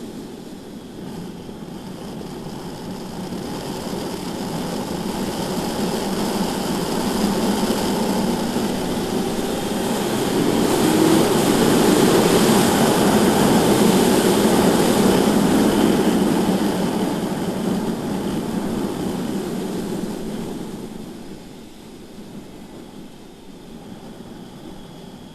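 Wind rush and engine noise from a BMW S1000RR sportbike lapping a track, heard from the bike. The noise builds steadily to a peak about halfway through as speed rises, then eases off near the end.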